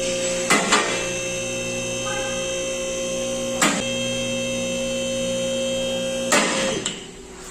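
Electric hydraulic pump motor of a vehicle lift running with a steady hum as it raises a car, with three sharp clacks along the way. The motor cuts off near the end.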